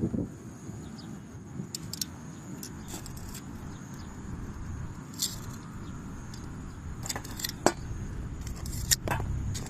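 Scattered light clicks and metallic clinks, like small metal gear being handled, over a low steady rumble; the sharpest clink comes near the end.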